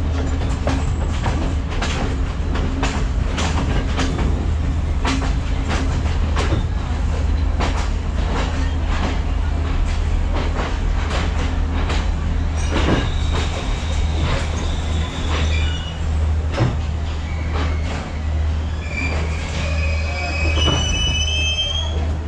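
Diesel passenger train slowing into a station, heard from on board: a steady low engine rumble with the wheels clicking over rail joints, the clicks coming less often as it slows. A high metallic squeal sets in about 13 seconds in, and several high squealing tones come near the end as the train brakes to a stop.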